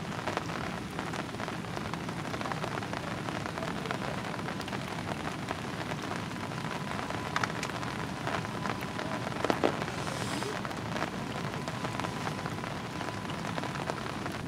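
Heavy rain falling steadily, a dense patter of drops, with a couple of sharper clicks about halfway through.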